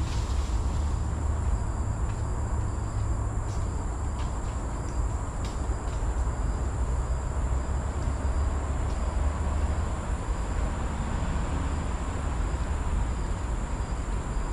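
Outdoor ambience: a steady low rumble with a steady high-pitched insect drone above it and a few faint ticks.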